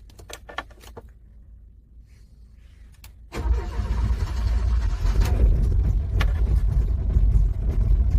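A few sharp clicks over a quiet background, then about three seconds in a car engine being cranked in the freezing cold starts up loudly and keeps going with a heavy low rumble.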